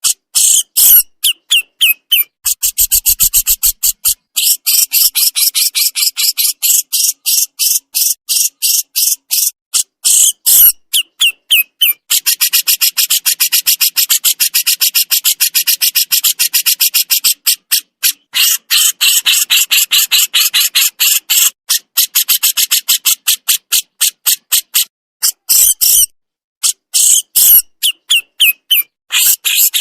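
Jenggot jawa songbird giving its rapid besetan call: a long, fast string of short, high, sharp chattering notes, several a second, broken only by brief pauses.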